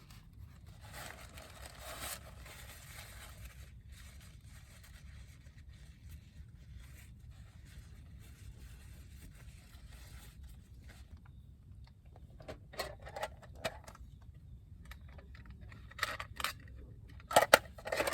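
Rustling and scraping of objects being handled, then a run of sharp clicks and knocks in the last few seconds, the loudest near the end.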